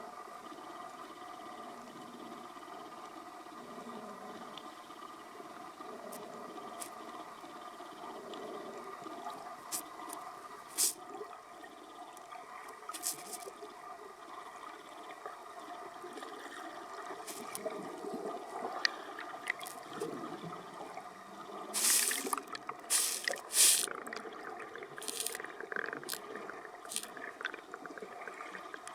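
Water sloshing and splashing, with a steady hum underneath and scattered sharp splashes, the loudest coming in a cluster about two-thirds of the way in.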